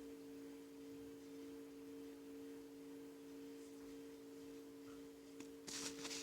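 A faint, steady two-pitched hum throughout, and a brief rustle near the end.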